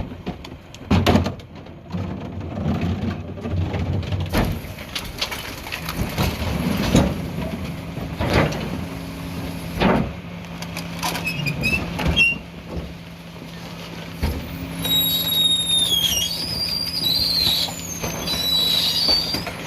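Mack McNeilus rear-loader garbage truck working a recycling pickup: its diesel engine runs steadily under repeated clanks and bangs of bins and material being handled. In the last few seconds, a run of high-pitched squeals and whistles.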